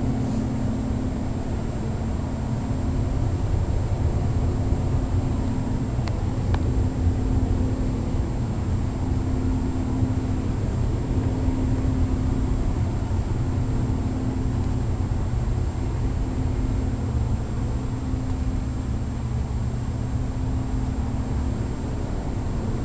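Carrier central air-conditioning units running: a steady mechanical hum with a low drone underneath, unchanging throughout.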